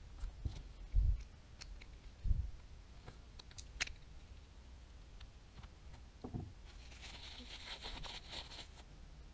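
Daiwa Tatula 100 TWS baitcasting reel being handled on the bench: a few soft bumps and sharp clicks of small parts, then a couple of seconds of rapid fine clicking near the end.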